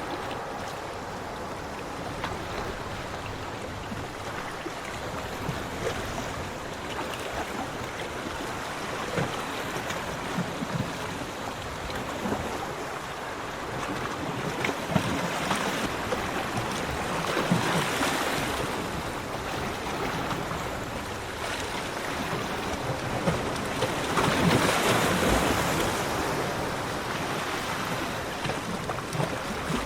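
Sea waves breaking on a beach in a continuous wash of surf, with two louder breakers swelling up about halfway through and again near the end.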